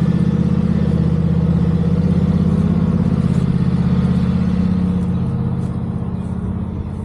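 Lawn mower engine running steadily, growing gradually fainter over the last two seconds or so.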